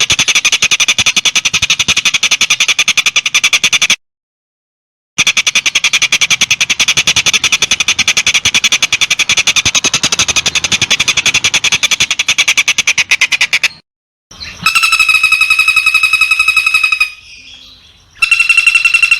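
Songbird tutor recording of harsh, rapid-fire 'tembak' song: long runs of a very fast rattling trill, broken by sudden gaps. Near the end come buzzy, pulsed held notes.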